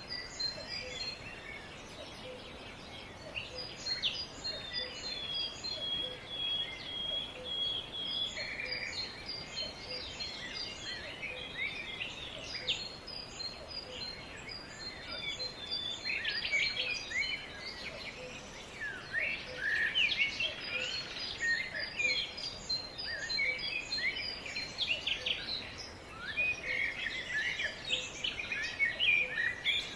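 Several birds chirping and calling together in a dense, overlapping chorus of short high chirps and trills, with one held steady note lasting a few seconds early on; the chorus is busiest in the second half.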